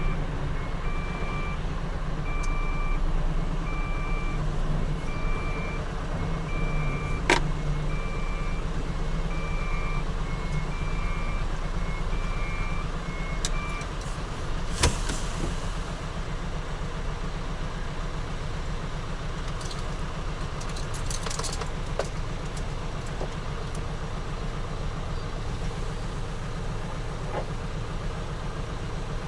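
Large truck's diesel engine idling steadily, with an electronic warning beep repeating about once a second that stops about 14 seconds in. A sharp click comes about 7 seconds in and a knock about 15 seconds in.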